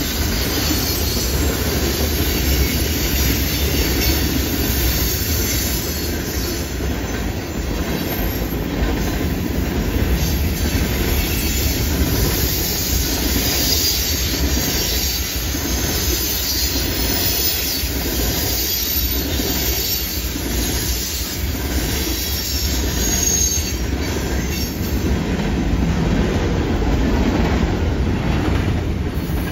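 Freight train cars rolling past on a curve: the steady noise of steel wheels on the rails, with a clatter over the joints and high wheel squeal from the curve. It eases at the very end as the last cars go by.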